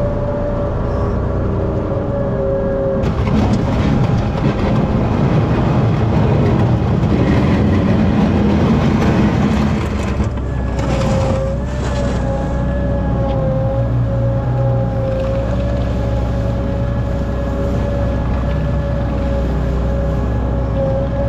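Skid-steer loader engine running and working while pushing snow, with a steady whine over it. It gets louder and rougher for several seconds in the middle, then settles back to a steady run.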